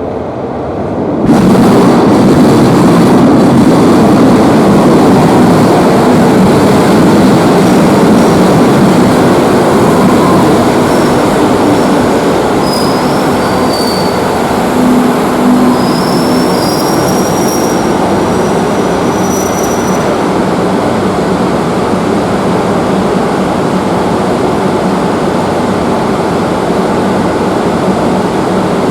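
Madrid Metro train running through an underground station: a loud steady rumble of wheels and motors that comes in suddenly about a second in, with faint brief high wheel squeals in the middle.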